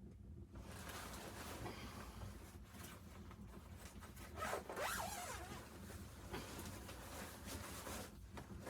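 A zipper being pulled: a long rasping run that starts about half a second in and lasts about seven seconds, loudest near the middle.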